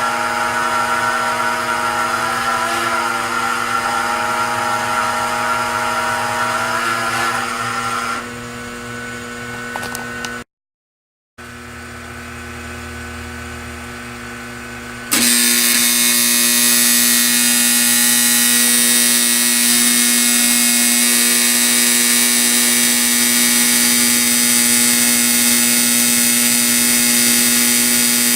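Steady electric buzz of an operating model train layout accessory's mechanism. It cuts out briefly about ten seconds in, returns quieter, then comes back louder about fifteen seconds in.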